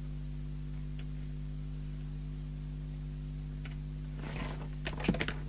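Steady electrical hum from the bench equipment, with a faint click about a second in and a few clicks and handling rustles near the end.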